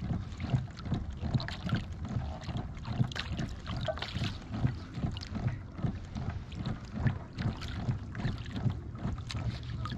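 Fishing boat trolling: a steady low motor hum under frequent irregular knocks and clicks.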